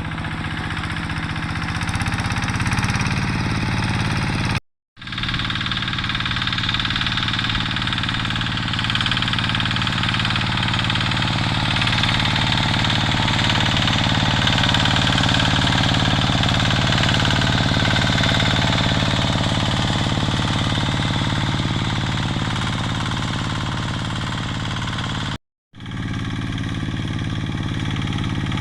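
Diesel engine of a Quick G3000 two-wheel hand tractor running steadily under load while plowing dry soil, with a knocking diesel clatter. The sound cuts out abruptly twice, about five seconds in and near the end.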